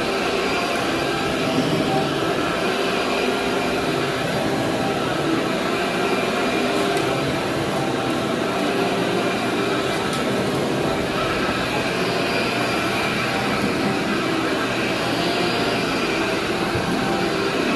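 Vacuum cleaner running steadily as it is pushed over carpet, pulling up embedded pet hair and debris, with a few faint ticks.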